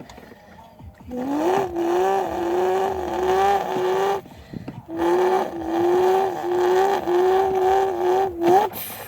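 A person imitating a car engine with their mouth: a buzzing vocal hum that rises in pitch about a second in and holds with small dips every half second or so, breaks off briefly past the middle, then runs again and drops away near the end.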